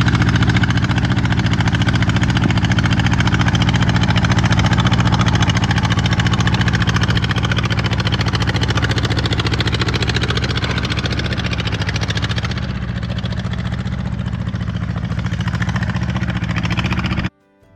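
Allis-Chalmers CA tractor's four-cylinder engine running steadily. It drops slightly in level about two-thirds of the way through, then cuts off suddenly near the end.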